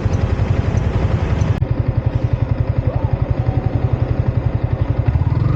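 Yamaha MT-15's single-cylinder engine running at low revs, its exhaust giving an even train of pulses, about ten a second. A hiss of wind noise above it drops away about a second and a half in.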